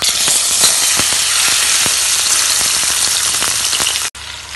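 Marinated prawns hitting hot mustard oil in a kadai. The oil bursts into a loud sizzle at once, full of crackling pops. About four seconds in it cuts out for a moment and comes back softer.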